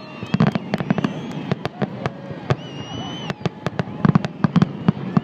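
Aerial fireworks bursting in quick succession: many sharp bangs and crackles over deep booms, with a few high whistling tones above them.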